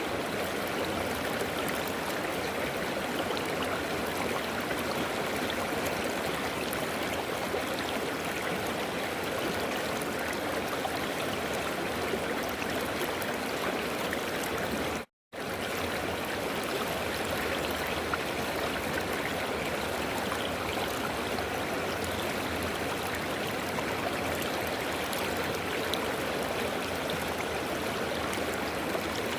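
River water flowing and rushing steadily. It cuts out completely for a split second about halfway through, then resumes unchanged.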